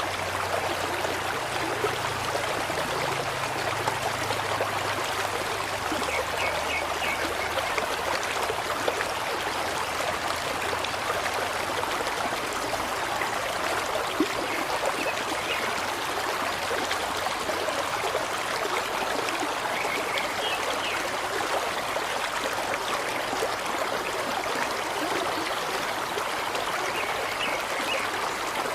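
Steady flowing water, like a stream running evenly without a break.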